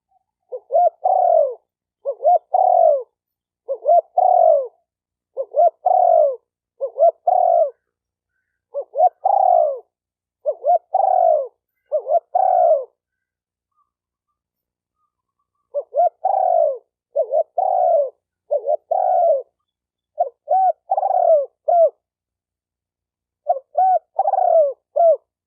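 Spotted dove cooing: repeated short phrases of two or three low, arched coo notes, with a pause of about three seconds midway.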